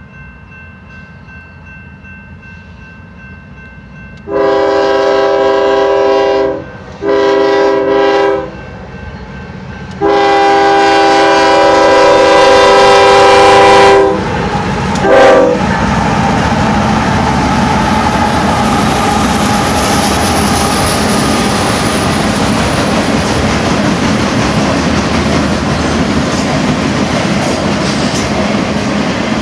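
Union Pacific GE C45ACCTE lead locomotive's air horn sounding four blasts for a grade crossing: a long one, a shorter one, a long one held about four seconds, and a short toot. A faint rumble of the approaching train comes before them. After the horn the locomotives and train pass close by with a loud steady rumble and clatter of wheels on the rails.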